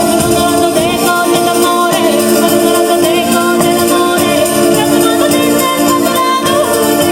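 Southern Italian folk music played by a band: steady held chords under a wavering melody line, over continuous busy percussion.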